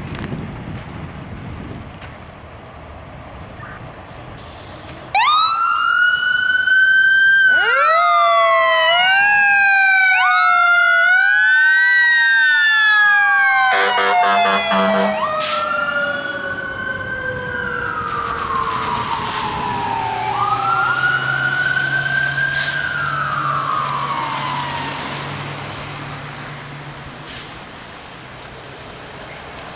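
Fire engine sirens: electronic wails start abruptly about five seconds in, several siren tones overlapping, with one long tone falling slowly in pitch. A horn blasts briefly in the middle, then the wails drop in pitch and fade as the truck passes, its engine rumbling underneath.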